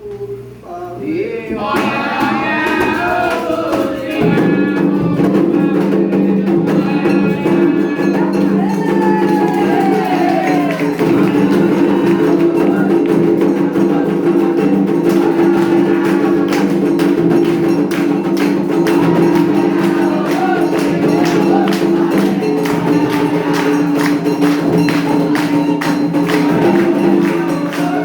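Candomblé ritual song: voices singing together over busy hand percussion that clicks and rattles steadily. It builds up over the first few seconds, then holds steady and loud.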